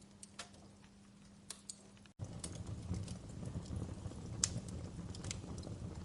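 Wood fire crackling, with sharp scattered pops from the burning logs. About two seconds in the sound drops out for an instant and comes back with a louder low rumble of flames under the crackles.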